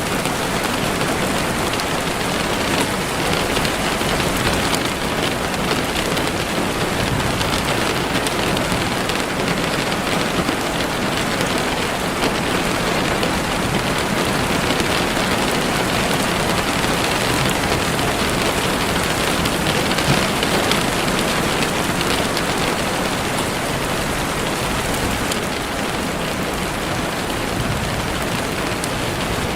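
Heavy rain falling steadily on leaves and the forest floor, a dense, even hiss of countless drops.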